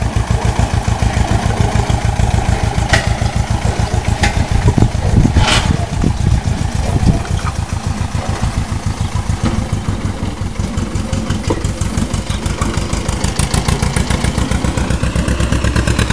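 Farm machine's engine running steadily, its low exhaust pulses beating quickly and evenly, with a few sharp clicks in the first half.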